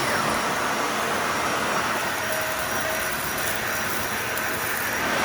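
Dyson vacuum cleaner running steadily with its brush roll off, sucking up fine dust from a hard floor in a clog test that it handles without clogging.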